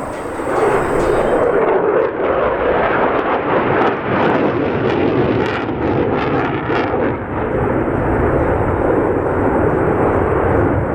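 Boeing EA-18G Growler's twin turbofan jet engines roaring loudly and steadily, with a stretch of sharp crackling in the middle.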